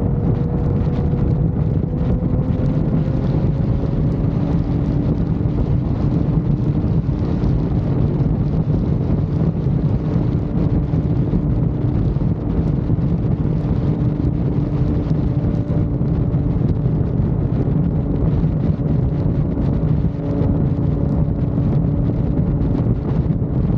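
Heavy wind rushing over the microphone on a motorcycle at highway speed, with the engine's faint steady hum underneath, its pitch edging up slightly at times.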